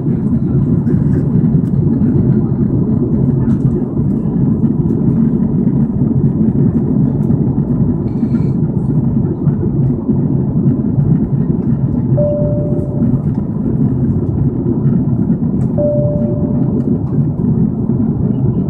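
Steady low rush of airflow and engine noise in the cabin of an Airbus A330-300 in flight. Two short single-pitched chimes sound about three and a half seconds apart in the second half.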